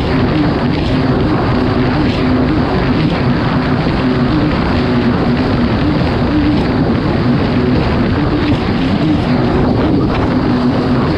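Kawasaki STX 160 jet ski's four-stroke engine running hard at racing speed, its pitch holding steady with slight wavering, over a constant rush of noise.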